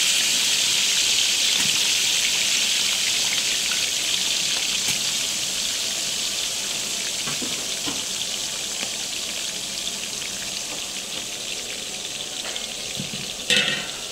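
Sliced onions sizzling in hot oil in a large aluminium pot, a steady hiss that slowly dies down. Near the end a metal ladle clanks against the pot.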